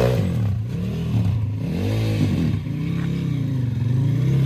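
Pit bike's small single-cylinder four-stroke engine idling and revving in short throttle blips, its pitch rising and falling several times over a steady idle.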